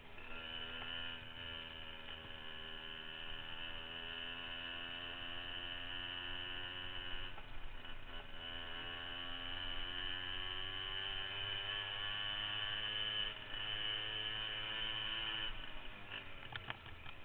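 Minibike's small engine running, its pitch drifting slowly down for several seconds, dipping briefly, then climbing slowly again; a few sharp clicks near the end.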